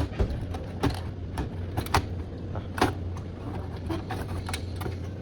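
Irregular sharp clicks and knocks, about seven, from desktop computer parts and casing being handled and set down, over a steady low hum.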